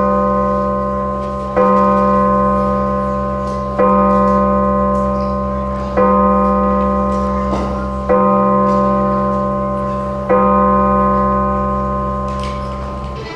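Deep bell strokes of a striking clock, evenly spaced about two seconds apart. Each stroke rings on and slowly dies away, and five strokes fall within these seconds.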